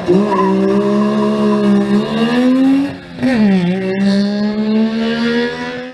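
Rally car engine at full throttle with revs climbing, then dropping sharply about three seconds in before climbing again. It cuts off abruptly at the end.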